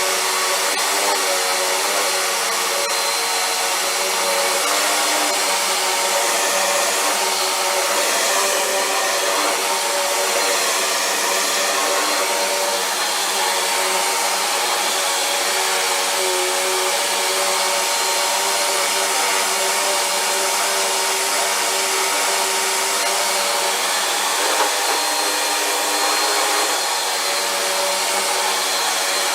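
Vacuum cleaner running steadily: a constant motor whine over a wide rush of air, its pitch wavering slightly now and then.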